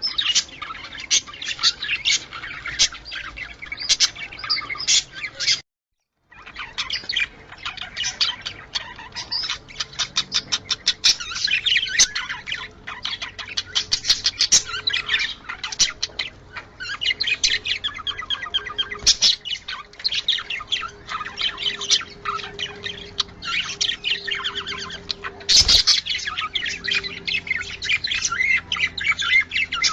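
A flock of budgerigars chattering and warbling continuously, with rapid high chirps and squawks. The sound drops out briefly about six seconds in, and there is a single short knock near the end.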